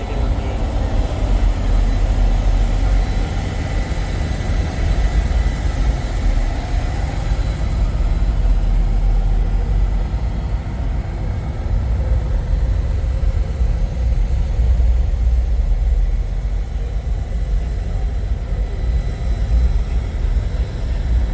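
Semi trucks' diesel engines idling, a steady low rumble.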